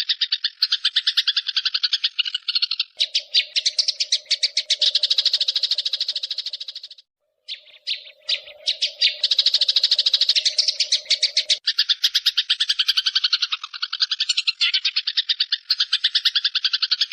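A songbird trilling in long, rapid runs of fast repeated notes, with a short break about seven seconds in. A steady lower tone runs underneath through the middle part.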